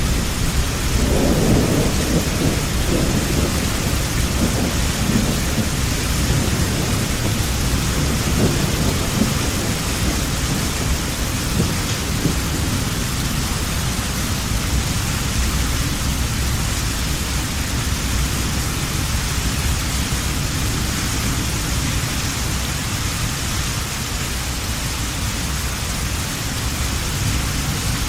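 Heavy rain falling steadily, with a low rolling rumble of thunder through the first dozen seconds that fades away.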